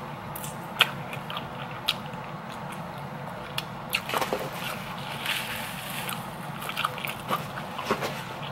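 Close-up eating sounds: chewing and biting, with scattered short clicks and wet smacks.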